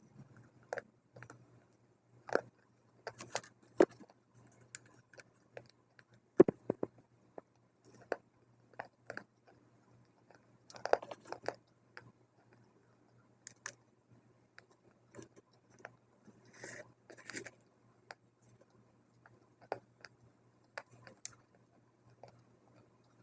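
Biting and chewing dry multani mitti (fuller's earth clay): irregular sharp crunches and crackles, a few seconds apart.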